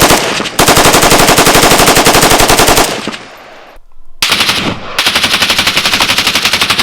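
AK rifle firing fully automatic in four bursts, a short burst then a long one, a pause, then another short burst and a long one, with shots coming in a fast, even stream.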